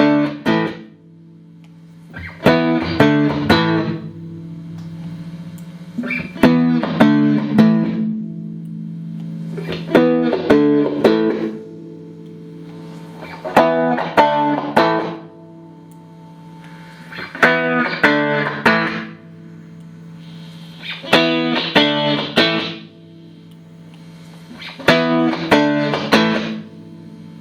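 Clean electric guitar through a Boss RV-6 reverb and Boss GE-7 equalizer pedal into two Roland JC-120 amps: a short picked chord phrase played about every four seconds. Each phrase rings out into a reverb tail.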